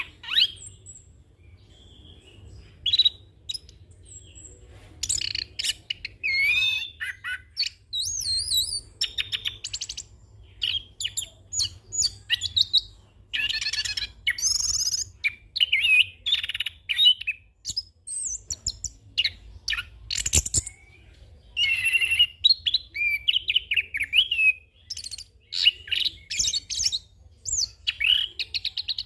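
Chestnut-capped thrush (anis kembang) singing a long, varied song: quick strings of whistled phrases, warbles and trills packed with mimicked calls of other birds. A sharp click about 20 seconds in.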